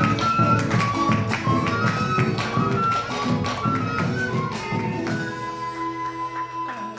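Live folk band playing the closing bars of a chacarera, with steady rhythmic percussive strikes under a melodic line, then ending a little over five seconds in on a held final chord that rings and fades.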